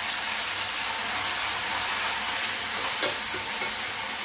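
Chopped onions and tomatoes sizzling steadily in hot oil in a stainless steel pan, with a spoon stirring them toward the end. The onions are sautéing and the tomatoes have just gone in.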